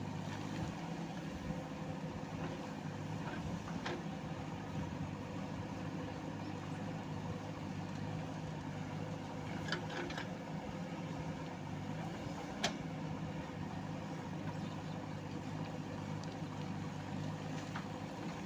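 JCB backhoe loader's diesel engine idling steadily, with a few short sharp knocks over it, the loudest about two-thirds of the way through.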